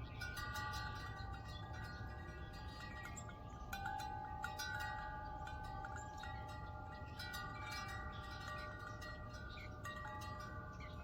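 Wind chimes ringing in a breeze, with fresh strikes throughout and many overlapping tones left hanging, over a low steady rumble.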